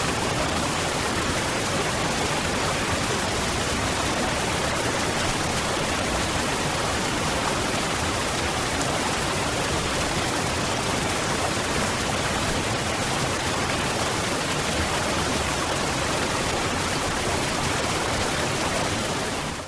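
Waterfall: a steady rush of falling water that holds even throughout, then fades out quickly at the very end.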